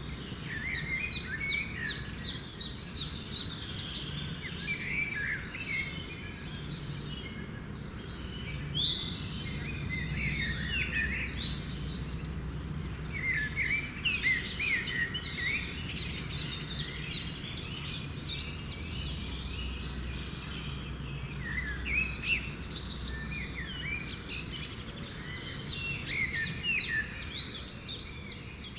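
Several birds singing in bouts of rapid chirps and trills that come and go every few seconds, over a steady low rumble.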